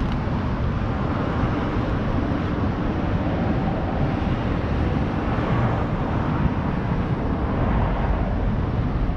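Steady outdoor noise, a low rumble without distinct events, swelling slightly about five to six seconds in.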